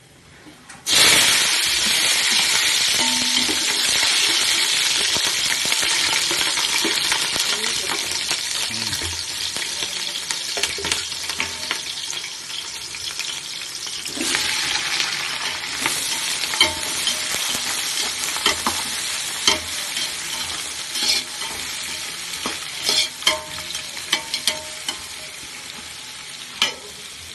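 Food dropped into hot oil in a pan starts sizzling loudly about a second in, then keeps frying, swelling up again midway. Scattered sharp knocks of a spoon stirring against the pan come through the second half.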